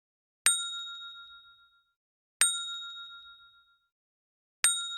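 A small metal bell struck three times, about two seconds apart. Each clear ding rings out and fades within about a second and a half.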